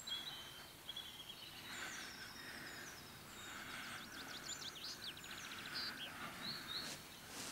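Songbirds singing: scattered high chirps and short falling whistles, with a fast trill of quickly repeated notes midway, over a faint outdoor hiss.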